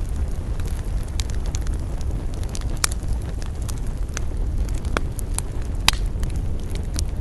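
Campfire crackling, with scattered sharp pops, the loudest about three and six seconds in, over a steady low rumble of wind.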